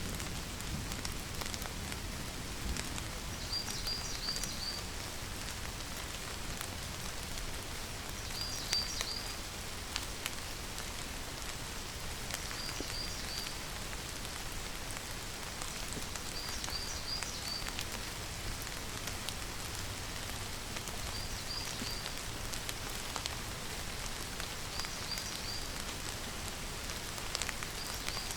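Steady rain falling, with sharp ticks of single drops landing close by. A short run of three or four high chirps repeats about every four seconds.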